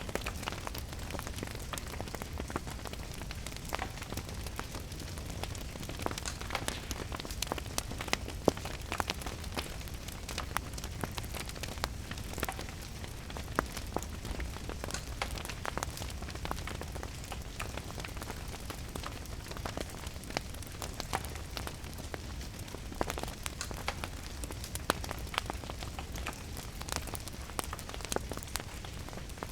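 Wood fire crackling with irregular sharp pops over a steady wash of rain, with a low rumble underneath.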